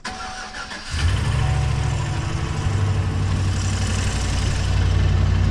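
The 6.0-litre V8 of a 2016 GMC Sierra 2500 starts up about a second in and then idles steadily with an engine knock. The owner is unsure whether it is a lifter or a rod bearing.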